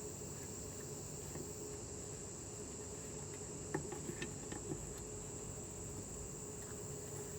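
Crickets chirping steadily in the background. A few light clicks about halfway through come from hand tools or bolts being handled.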